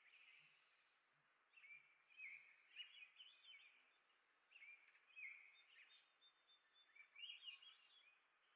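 Faint songbird song: short warbling phrases of quick rising and falling notes, repeated four times with pauses between them.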